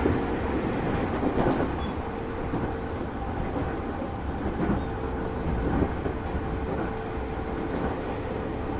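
Interior running sound of a 205 series 5000-subseries electric train with a Toyo IGBT inverter drive, cruising between stations: steady wheel and rail rumble with scattered rail-joint clicks. A thin steady hum runs through it, drops out for about two seconds near a third of the way in, then returns.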